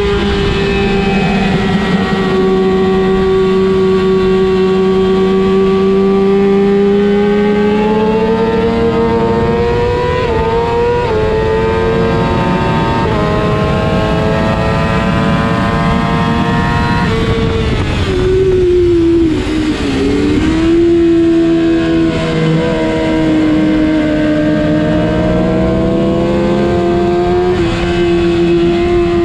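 Kawasaki ZX-6R's inline-four engine running at high revs, its pitch creeping up with a couple of quick breaks about ten to thirteen seconds in. Around eighteen seconds in it drops sharply, as when braking and changing down, then pulls back up. A steady wind rush runs underneath.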